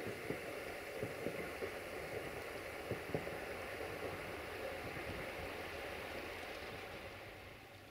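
Duewag class 628 diesel multiple unit running along the line at a distance, a low steady rumble with a few faint clicks, mixed with the rush of river water. It fades away near the end.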